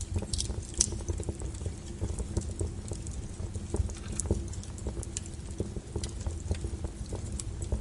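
Logs burning in a fireplace: irregular crackles and sharp pops over a steady low rumble from the fire.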